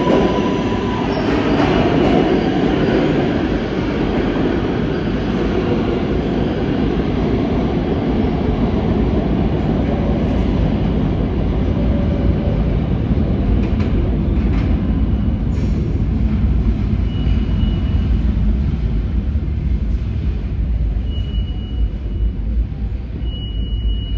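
New York City subway train on the L line running through the station, a steady loud rumble of wheels and motors, with a thin high wheel squeal coming and going in the second half.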